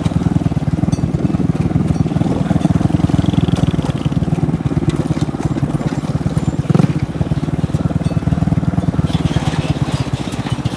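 Motorbike engine running steadily while riding, its fast even firing pulse throughout, with a brief knock about two-thirds of the way in.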